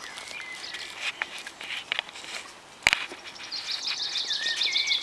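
Outdoor ambience with birds chirping and, from about three and a half seconds in, a rapid high trill. A single sharp click comes just before that.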